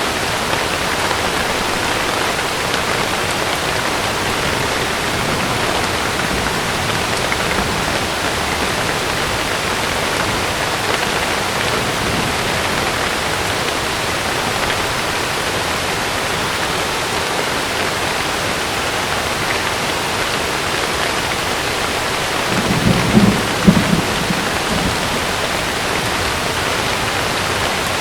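Heavy rain drumming steadily on a camping tent. Late on comes a short, low rumble of thunder, the loudest moment.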